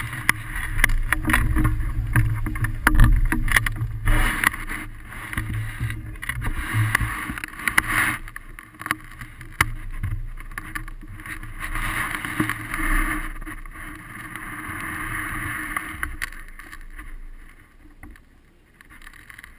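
Rushing airflow buffeting the camera microphone during a hang glider flight: a gusty rumble and hiss that rises and falls and eases off near the end.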